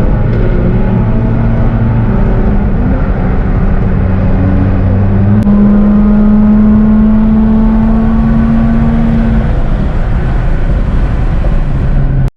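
Several loud, straight-piped car exhausts running together, their engine notes overlapping and held at steady revs, one briefly rising and falling. The sound cuts off suddenly at the very end.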